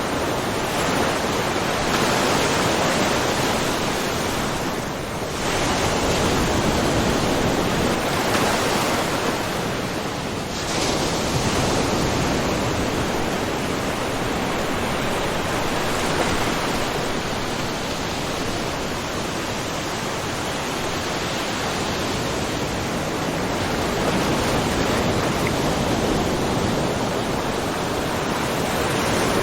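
Small ocean waves splashing and washing in a rocky cove, a continuous wash that swells and eases, with brief lulls about five and ten seconds in.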